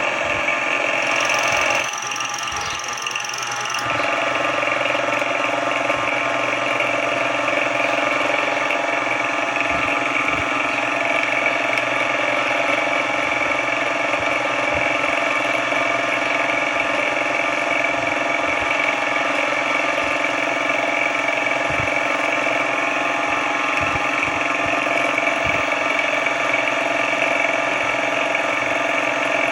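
Benchtop mill-drill running steadily with a constant whine. The sound drops and changes briefly about two seconds in, then returns to the same steady running about four seconds in.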